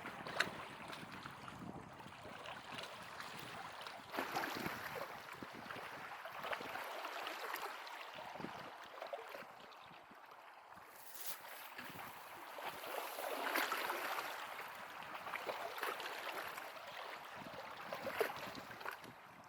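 Small waves of lake water lapping and splashing at the shore, in uneven swells. In the first several seconds there is also low wind rumble on the microphone.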